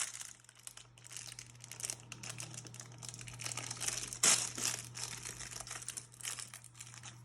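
Toy packaging wrapper crinkling as it is handled and opened, with one louder crackle about four seconds in.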